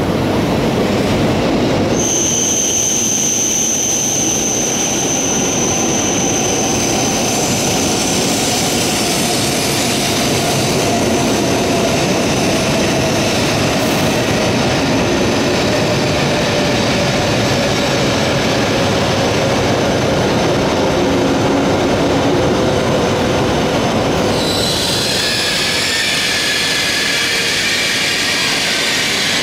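E7 series Shinkansen pulling into the station and slowing as its cars pass close by, with a loud steady rushing noise, a high whine held through most of it and a tone that slowly falls in pitch. Near the end a cluster of high squeals sets in as the train slows.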